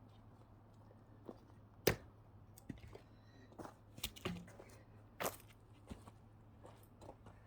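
Scattered sharp knocks of wood being struck and handled while splitting firewood with an axe: one loud crack about two seconds in, a cluster of smaller knocks around four seconds, another near five seconds, and lighter taps in between.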